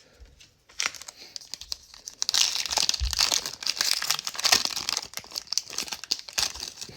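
A trading card pack's plastic wrapper being torn open and crinkled: a dense run of crackling that starts about a second in and lasts several seconds.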